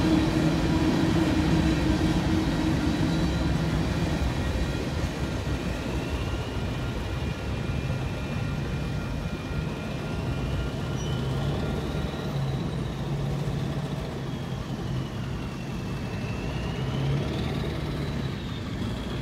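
Freight train rolling past with a steady low rumble that slowly fades, and a high thin squeal that slowly wavers up and down in pitch through the second half.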